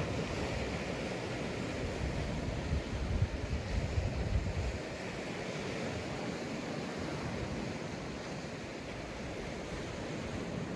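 Sea waves breaking and washing on a sandy beach, a steady surf wash, with gusty wind buffeting the microphone in low rumbles between about two and five seconds in.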